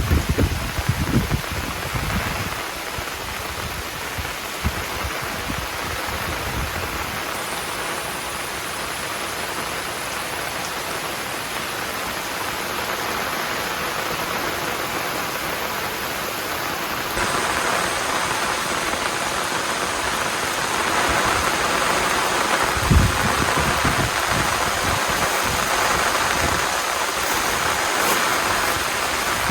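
Heavy rain falling steadily, an even hiss that gets a little louder about halfway through, with one sharp knock near the end.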